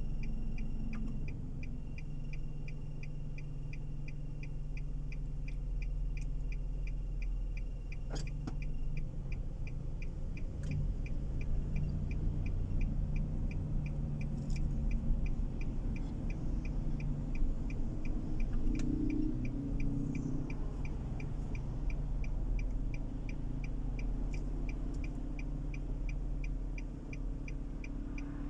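Car cabin: low engine and road hum with a steady, even ticking throughout, like a turn-signal indicator. A thin high tone also runs until about nine seconds in, then stops.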